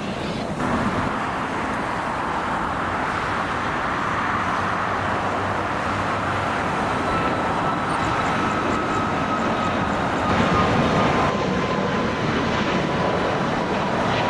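Jet airliner's engines: a steady rush of noise that builds slightly, with a faint whine falling slowly in pitch over the second half.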